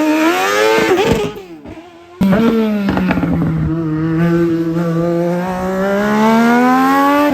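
Race car engines at full throttle. The first climbs in pitch and fades away about a second in. About two seconds in, a second loud engine cuts in abruptly, dips in pitch, then climbs steadily through the revs as it accelerates.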